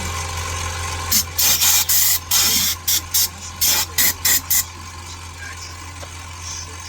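A quick, uneven series of about ten short, loud hissing bursts, like puffs of blown air, starting about a second in and stopping about three and a half seconds later, over a steady low hum.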